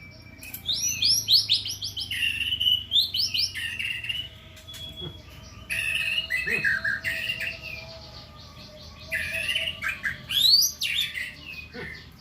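A songbird singing in three bouts of rapid sweeping whistled notes, the first lasting about four seconds and the others shorter, with short pauses between.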